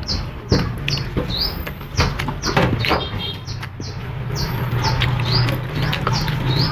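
A small bird chirping over and over: short, high chirps, some rising in pitch, about two a second.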